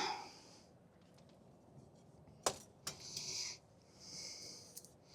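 Two sharp metallic clicks about half a second apart, from tools or shock hardware being handled during shock removal, followed by a few short, faint hissing breaths.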